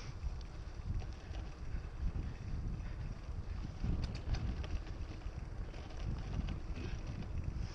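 Mountain bike riding a dirt trail: a steady rush of wind on the camera microphone over a low rumble of tyres and frame, with a quick run of rattling clicks about four seconds in.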